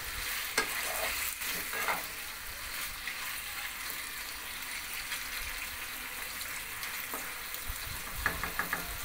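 Chicken pieces sizzling in a non-stick wok as a spatula stirs them, scraping and knocking against the pan. The sizzle is steady and hissing, with a few sharp knocks in the first couple of seconds and a quick run of light ticks near the end. The salt is drawing water out of the chicken, so it is frying in its own juices.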